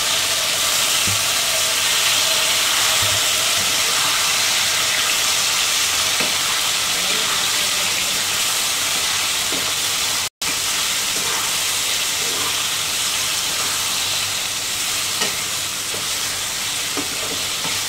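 Raw marinated chicken pieces sizzling loudly in hot oil in a kadai, just added to the fried cumin and mustard seeds, while a spatula stirs them. The steady sizzle breaks off for an instant about ten seconds in.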